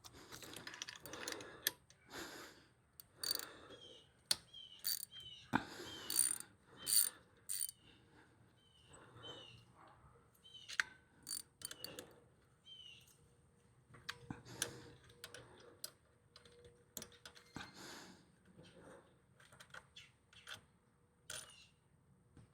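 Socket ratchet clicking in short, irregular bursts, with light metal clinks, as the exhaust's mounting bolts are undone.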